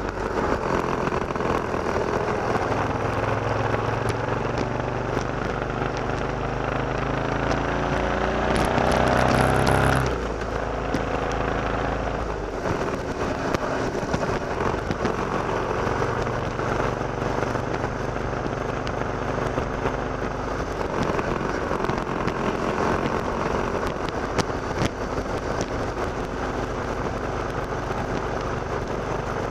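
Motorcycle engine running under way, rising in pitch as it accelerates, then dropping off sharply about ten seconds in and running more steadily after that.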